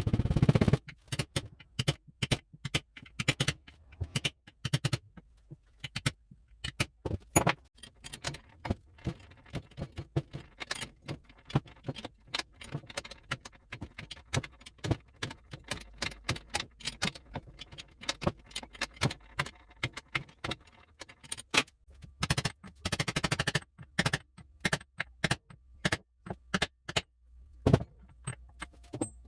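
Irregular metallic clinks, clicks and knocks of hand tools and metal parts being handled and set down during engine and transmission work, with busier clattering near the start and again about two-thirds of the way through.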